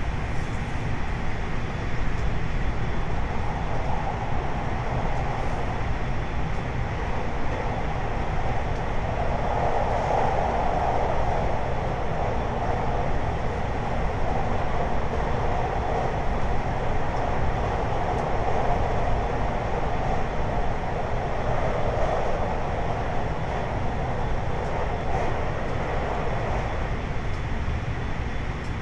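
JR 521 series electric multiple unit running at speed, a steady, even rolling rumble with a faint steady whine, heard from inside the car.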